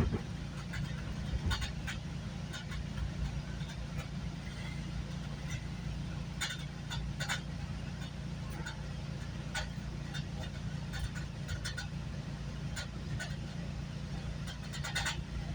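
Steady low rumble of a moving GO Transit commuter train heard from inside the coach, with scattered sharp clicks and rattles from the car and track.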